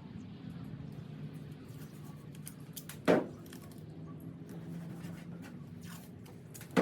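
Painter's tape being pulled off the roll in two short rips, about three seconds apart, over a steady low hum.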